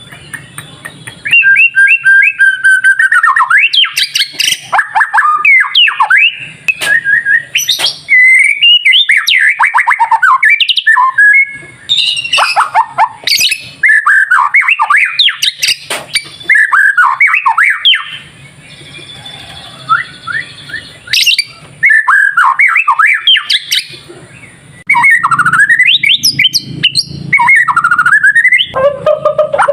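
White-rumped shama (murai batu) singing loud, fast, varied song: rapid whistles, chirps and trills in bursts, with a couple of short pauses of a second or two. This is a bird in full, energetic song, the kind that keepers play to provoke a silent caged shama into answering.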